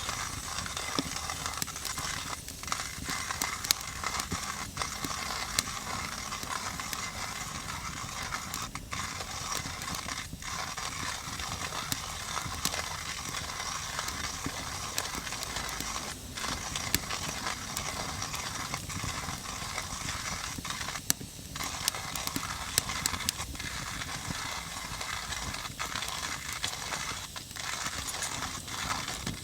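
Coffee grinder grinding beans: a continuous gritty crunching, broken now and then by brief pauses.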